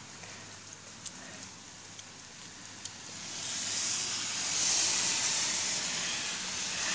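Heavy rain pouring down in a hiss, with a few faint drop ticks at first, swelling louder about three seconds in.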